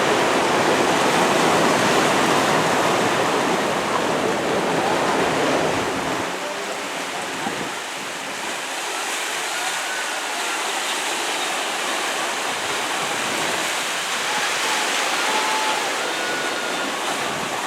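Steady rushing noise of open water and wind, with faint distant voices; the deeper rumble drops away about six seconds in.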